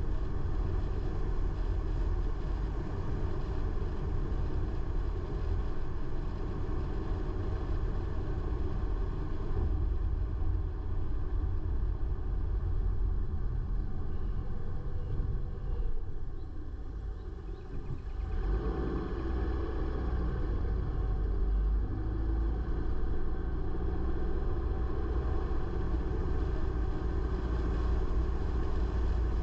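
A car being driven: a steady low rumble of engine and road noise. It eases off briefly about two-thirds of the way through, then picks up again.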